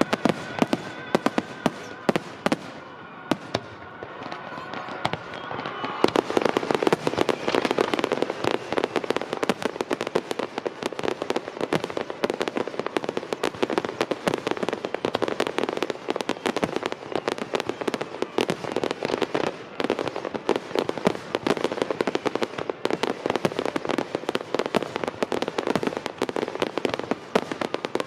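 Aerial fireworks bursting. Scattered bangs come first, and at about six seconds they give way to a dense rapid-fire barrage of bangs and crackles that runs on without a break.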